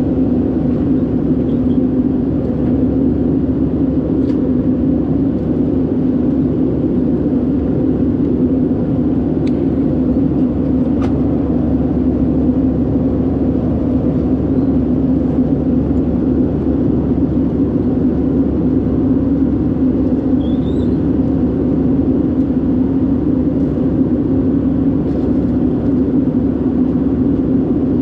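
Airbus A319's CFM56 engines and airflow making a steady drone inside the passenger cabin, strongest in a low hum with a hiss above it, unchanging throughout.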